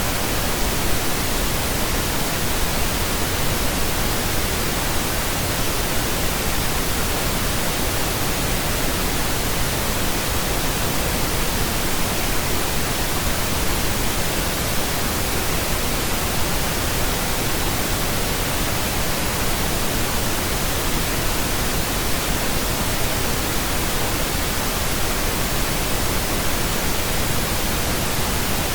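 Steady pink noise: an even, unbroken hiss with no change in level or character.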